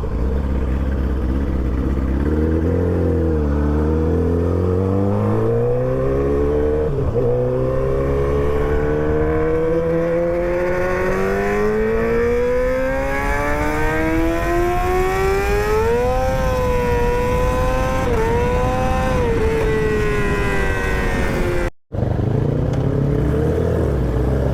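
Motorcycle engine pulling up through the revs in one long, slow rise over about ten seconds, with brief dips in pitch before and after, under steady road noise. The sound drops out for a moment near the end.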